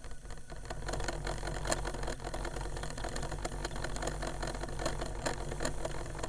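An old 1980s-era Discman portable CD player whirring, with irregular clicking and ticking, as its disc motor keeps trying to spin up to speed and cannot: it no longer has enough power. It grows louder about a second in.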